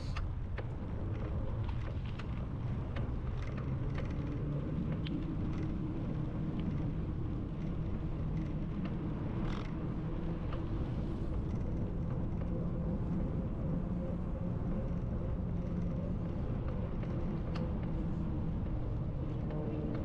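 Steady low rumble of a bicycle rolling along a paved path, with a faint steady hum and scattered small clicks and ticks.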